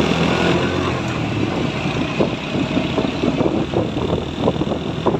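Truck engine running steadily, with a string of short irregular knocks and rattles over the rumble from about two seconds in.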